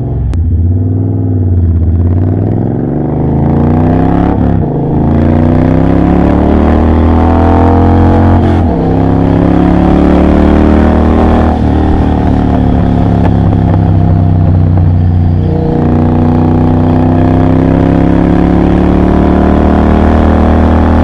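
Triumph Bobber's 1200 cc parallel-twin engine through a Motone Mayhem X-pipe exhaust with next to no silencing, under way on a ride. It pulls up through the gears, its pitch climbing and then dropping at each upshift about every three to four seconds, and settles into a steady cruise for the last few seconds.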